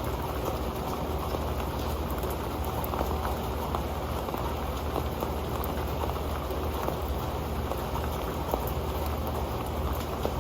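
Steady rain falling onto an old pan: a dense, even spread of small drop ticks over a low rumble.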